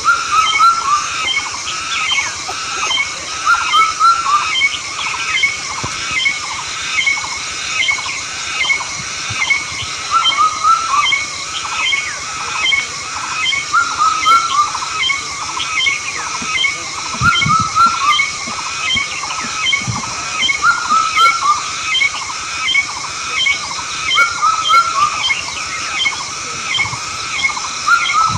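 An animal calling over and over, a short pitched call about once a second, over a steady high hiss.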